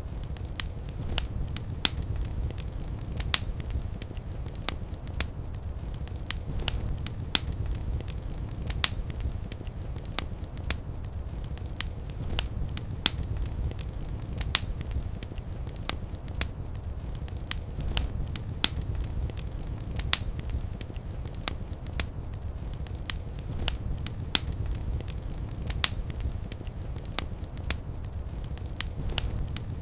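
Fireplace fire crackling, with irregular sharp pops and snaps several times a second over a steady low rumble of the flames.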